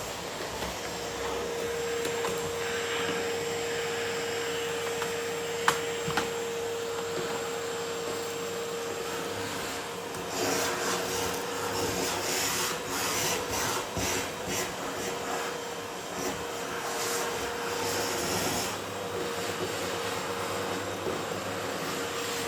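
Kärcher vacuum cleaner running with a steady whine under its rushing noise. A sharp click comes about six seconds in, and through the middle part the sound surges unevenly in loudness.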